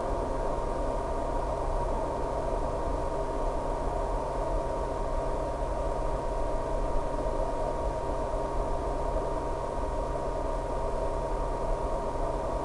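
FPV drone flying through high wind: a steady rush of wind noise with a constant motor and propeller whine, unchanging throughout.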